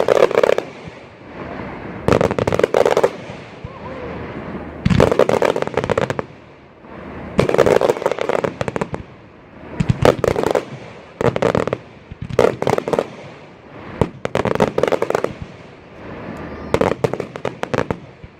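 Fireworks display: about eight volleys of rapid crackling bangs, each lasting about a second, fired every two seconds or so.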